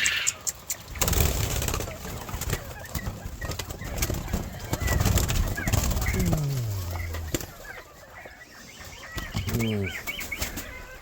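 Penned poultry and small game birds chirping and calling, with a stretch of rustling, flapping-like noise in the first half and two low, falling calls later on.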